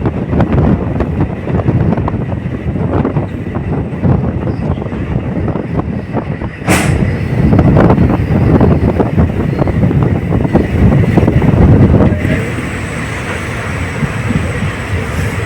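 Passenger train running at speed heard from on board: steady wheel-on-rail rumble and clatter with wind rush. A sharp crack comes about seven seconds in and the rumble grows louder, then turns thinner and hissier near the end.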